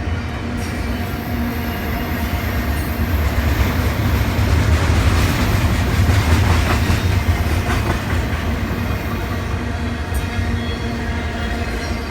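Freight train rolling past close by, its cars' wheels clacking over the rail joints over a steady low rumble that grows a little louder around the middle.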